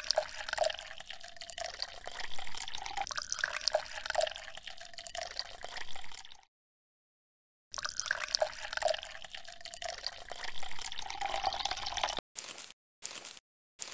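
Water dripping and trickling, with short bubbly plinks. It cuts off dead about halfway through, then starts again a second later.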